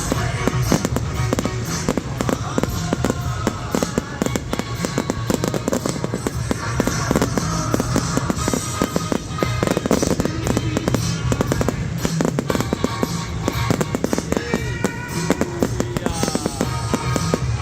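A fireworks display going off in rapid volleys, dense crackling and popping bangs, over loud music played along with it.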